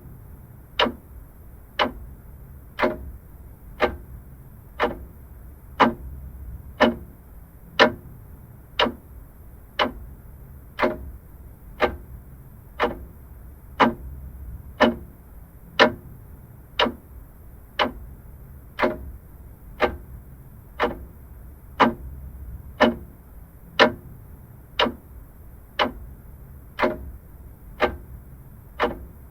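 Vintage clock ticking steadily, about one tick a second.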